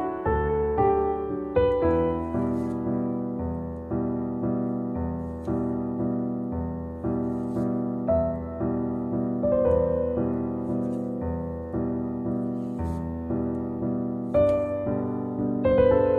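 Gentle background piano music: a slow, even run of sustained notes over a steady bass.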